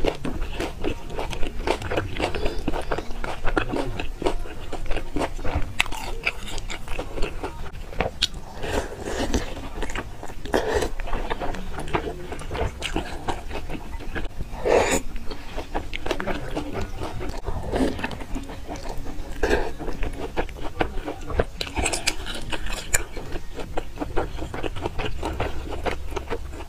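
Close-miked wet chewing and slurping of youtiao (fried dough sticks) soaked in soy milk, with many small smacking clicks and a few longer slurps.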